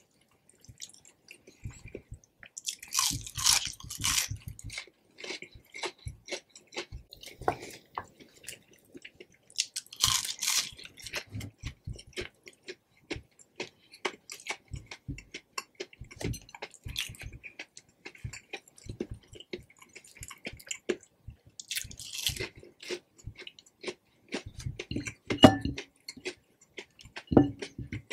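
Close-miked chewing of breaded fried Spam fries dipped in cheese sauce: a run of small mouth clicks and chewing noises, with louder bites about three seconds in, about ten seconds in and again about twenty-two seconds in.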